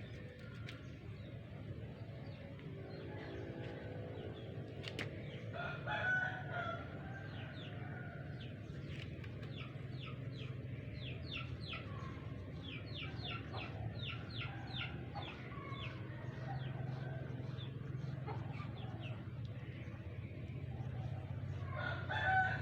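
Chickens: a rooster crows about six seconds in and again near the end, with a run of quick, high, falling chirps between, over a steady low hum.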